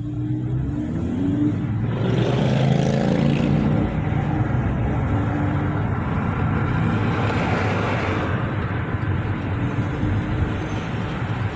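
Street traffic in a city: the steady hum of vehicles, with louder swells as vehicles pass about two seconds in and again near the eight-second mark.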